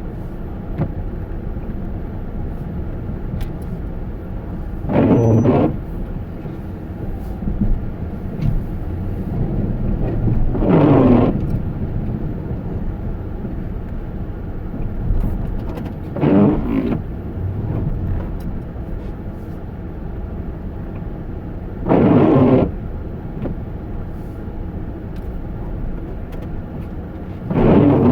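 A steady low vehicle rumble, with a short louder swish repeating at an even pace about every five and a half seconds.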